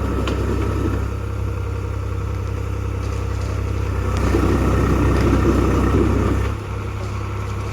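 Swaraj 834 XM tractor's diesel engine running steadily, growing louder about four seconds in and easing back down a couple of seconds later.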